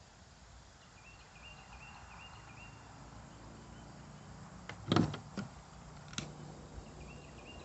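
A sharp knock about five seconds in, followed by a few lighter clicks: handling noise from the wiring work. Faint rhythmic chirping sounds in the background for the first few seconds.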